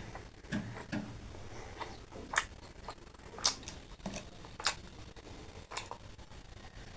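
Chewing and lip-smacking heard close up: irregular wet smacks and clicks, a few sharper ones standing out.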